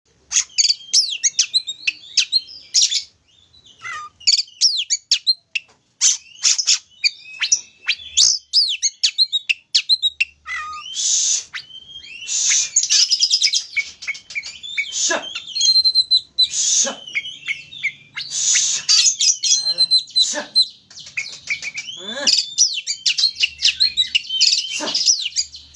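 Oriental magpie-robin (kacer) in full, vigorous song: a fast, varied stream of chirps, sweeping whistles and rapid trills, broken by a few harsh, buzzy notes and a couple of brief pauses.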